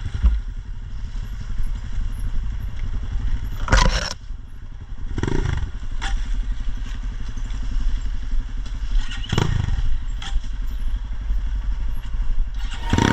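Off-road motorcycle engine running steadily, with several knocks and clatters, the loudest about four seconds in and again about nine seconds in.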